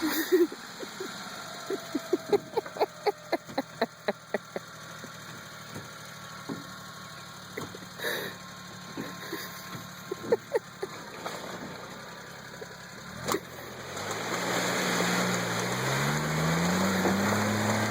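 Mini truck's engine running low, with a quick string of sharp knocks and rattles, about four a second, in the first few seconds and scattered knocks later. About three-quarters of the way through, the engine revs up and climbs steadily in pitch.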